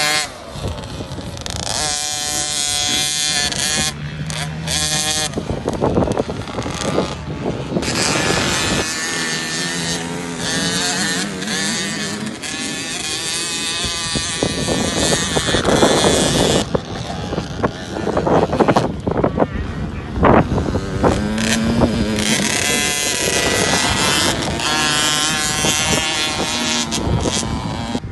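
Small two-stroke motocross bike engine, a 50 cc KTM SX50, revving up and down in pitch as it is ridden around a dirt track.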